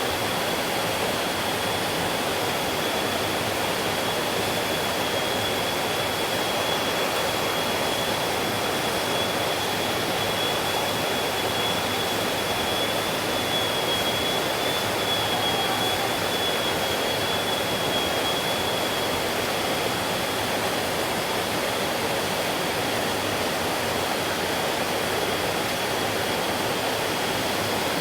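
Valley stream flowing: water rushing steadily over rocks. A thin, steady high-pitched tone runs faintly underneath.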